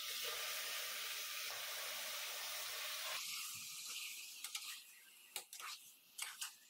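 Chicken pieces and masala sizzling in hot oil in an aluminium pressure cooker, a steady hiss that cuts off abruptly about three seconds in. Then a metal spoon scrapes and clinks against the pot several times as the chicken is stirred.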